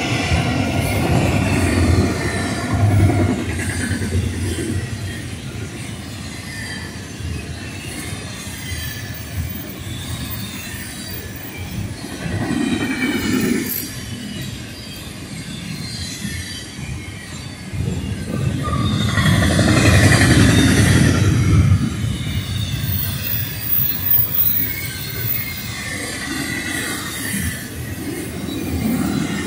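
Double-stack container freight train rolling past at speed: a steady rumble of steel wheels on rail with faint high-pitched ringing at times. It swells louder near the start and again about twenty seconds in.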